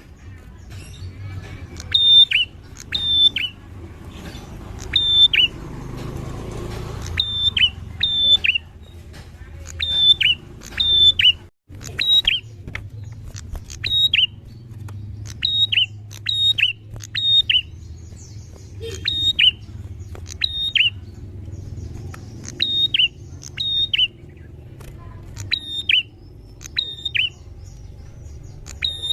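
Prinia (prenjak) calling over and over: short, sharp notes, mostly in pairs, each dropping steeply in pitch, repeated about once a second. A steady low hum runs underneath, with a brief break just before the middle.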